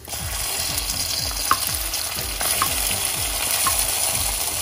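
Cashew nuts sizzling in hot ghee in a pan as they are stirred, a steady frying hiss with three light clinks about a second apart.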